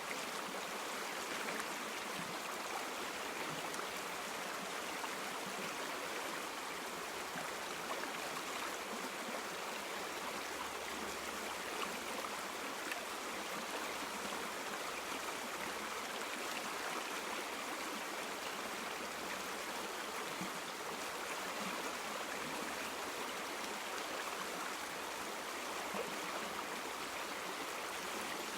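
River water flowing and gurgling over stones, a steady rushing with no change.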